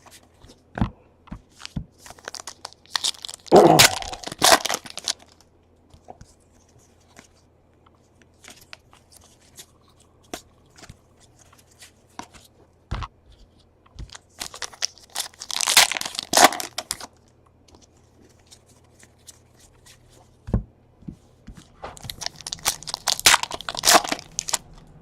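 Trading card pack wrappers being torn open and crinkled, in three bursts of rustling and tearing, with small clicks and taps of cards being handled in between.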